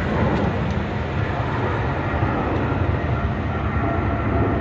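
Steady rumble of motorcycle engines running, with a faint steady tone coming in near the end.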